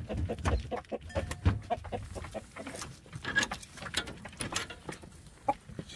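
Chickens clucking in a small coop, short scattered calls mixed with clicks and knocks, with a few low thumps in the first second and a half.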